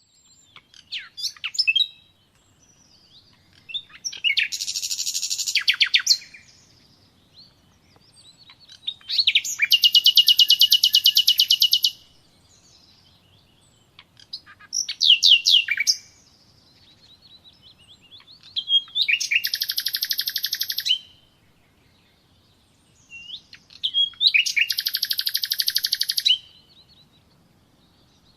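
A songbird singing repeated phrases: a few short, high introductory notes, then a long, very fast trill lasting two to three seconds. The phrase comes about every five seconds.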